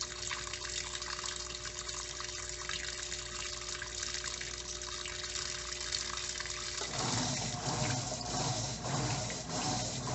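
Electrolux LTE09 top-load washing machine filling its tub with water for the rinse, with a steady hum under the rush of water. About seven seconds in the hum stops and the agitator starts churning the load back and forth, about two strokes a second.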